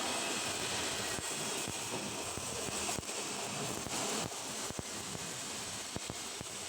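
Stick (SMAW) welding arc on carbon steel pipe, a steady frying hiss broken by irregular sharp crackles.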